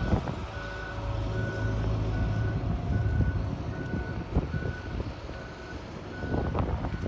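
A reversing alarm beeping steadily, about one short beep every three-quarters of a second, over the low rumble of the Boeing 747 freighter's jet engines, fading after it has passed overhead, with wind buffeting the microphone.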